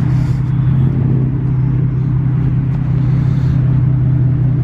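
A car engine running at a steady idle, a loud, unchanging low hum.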